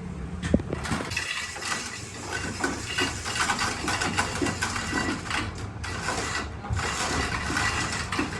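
Rapid, irregular metallic clicking and clinking over a steady low engine hum.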